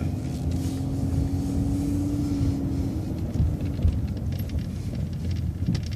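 Transit bus moving slowly, heard from on board as a steady low rumble. A faint steady hum sits over it and fades out about halfway through.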